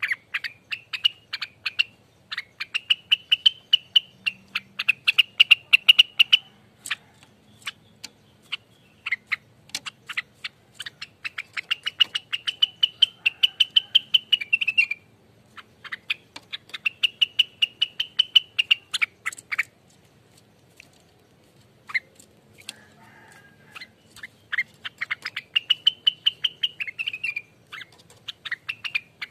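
Cucak rengganis bird singing a fast, rolling 'ropelan' song: rapid trains of sharp repeated notes under a warbling trill, in phrases of a few seconds with short pauses between them.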